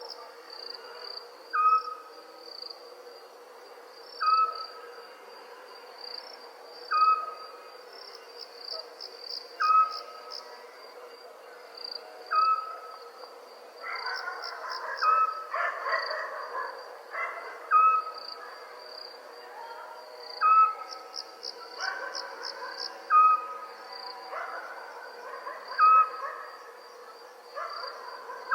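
Night chorus of crickets trilling steadily in high pulses, with an owl giving a short, clear whistled note about every two and a half to three seconds, ten times. Rougher, scratchier animal calls join in around the middle and again near the end.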